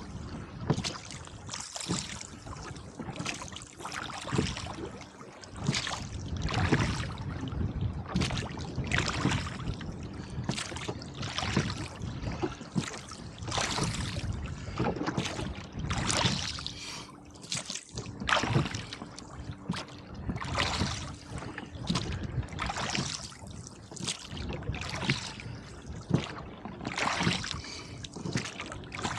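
Oars of a rowboat dipping and pulling through choppy lake water, a splash and rush of water with each stroke about every one and a half to two seconds.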